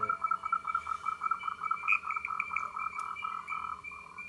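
A frog calling: a rapid, even train of short pulsed notes at one pitch that stops shortly before the end.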